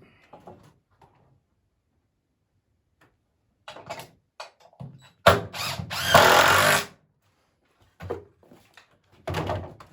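Power drill driving a screw into a poplar swing slat in one burst of about a second and a half midway, preceded by a few light knocks of the wood being handled.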